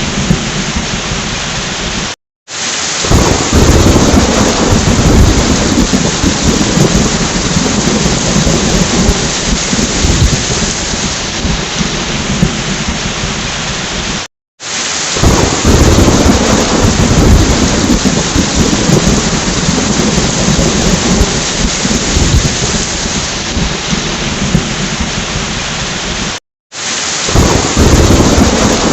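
Heavy rain with rolling thunder rumbling low beneath it. The track cuts briefly to silence three times, about twelve seconds apart, and the thunder swells up again after each cut.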